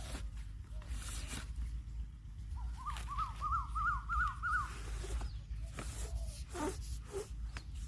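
A bird calling a quick run of about eight chirps, each rising then falling, the run climbing slightly in pitch, over a low steady rumble with scattered knocks.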